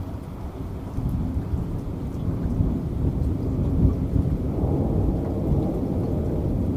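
Thunder rumbling low and continuously over heavy rain, swelling about a second in and again past the middle.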